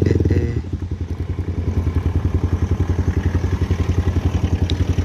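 Motorcycle engine running at low revs, its exhaust pulses steady at about a dozen a second, briefly louder right at the start.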